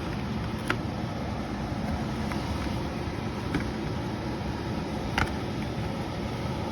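Furnace blower running steadily, air rushing into the return duct, with a couple of light knocks from handling the filter.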